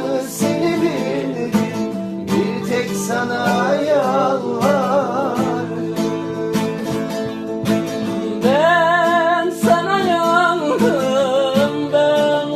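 A song sung to a plucked string instrument accompaniment. The singing holds long, wavering, ornamented notes over a steady plucked accompaniment.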